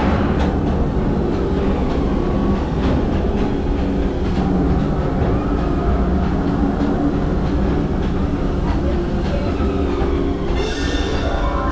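Disneyland Railroad passenger car rolling along the track: a steady low rumble with scattered clicks of the wheels over rail joints. Near the end, music starts up over it.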